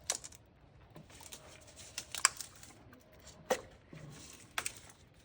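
Plastic wiring-harness clips and connectors being pushed down and pulled loose by hand: several sharp clicks with rustling of the harness between them.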